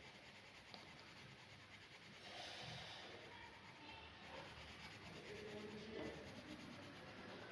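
Faint scratching of a drawing pen on paper, coming and going in short strokes.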